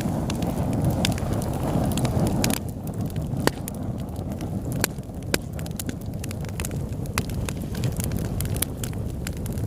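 Wood fire in a fireplace crackling: scattered sharp pops and snaps over a steady low rushing of the flames, which is louder for the first two and a half seconds.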